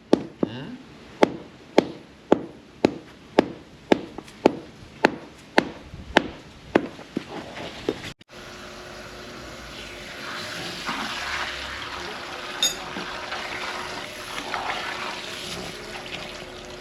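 A hammer striking repeatedly at the plumbing, about two even blows a second for the first half, each ringing briefly. Then, after a sudden break, water running with a steady rushing sound and a faint hum.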